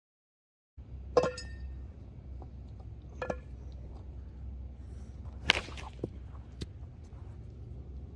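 Baseball bat hitting balls in batting practice: three sharp cracks about two seconds apart, the first two with a short ringing tone and the third the loudest. A few small clicks and a steady low rumble lie underneath, after a moment of dead silence at the start.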